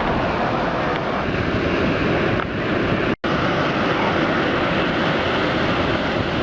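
Steady, loud rushing noise of wind buffeting the microphone over the sound of surf, broken by a split-second dropout about three seconds in.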